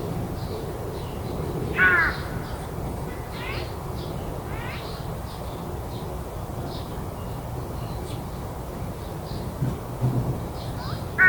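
A crow caws loudly about two seconds in and again at the very end, over faint high chirps that repeat throughout.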